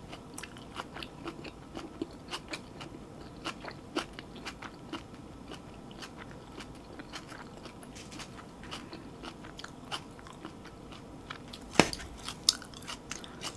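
A person chewing a mouthful of food close to the microphone: a steady run of small, soft mouth clicks, with a couple of sharper clicks near the end.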